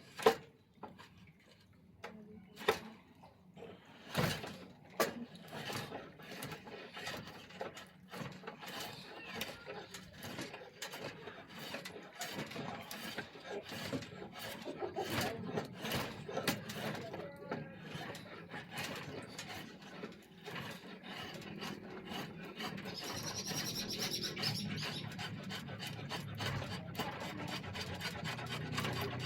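Hand tool rasping wood in quick repeated strokes, taking down the thickness of an oak bow limb to taper it. The strokes begin about two seconds in and run on, denser and a little louder toward the end.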